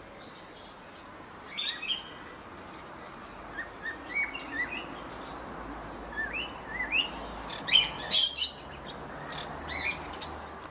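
Small birds chirping: short, repeated rising chirps scattered through, loudest about eight seconds in, over a steady outdoor hiss.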